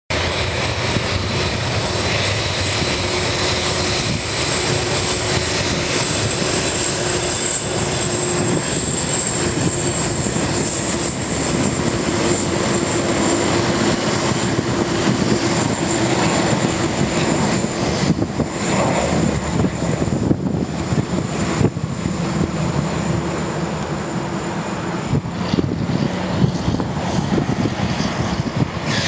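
Boeing 747-8's four GEnx turbofan jet engines at takeoff thrust during the takeoff roll: a loud, steady jet roar with a high, held whine.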